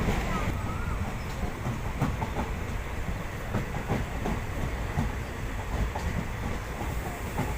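Passenger express train running, with a steady low rumble and irregular clicking clatter of wheels over the rails.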